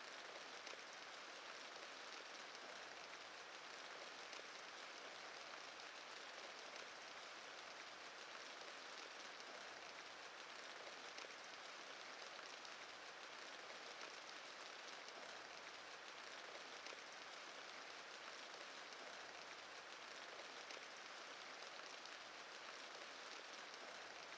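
Faint, steady rain against window glass: an even patter of drops that never swells or stops.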